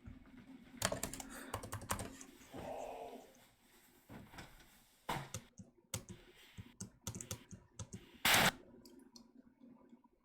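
Computer keyboard typing and scattered clicks, irregular and close. About eight seconds in there is one brief, loud burst of noise.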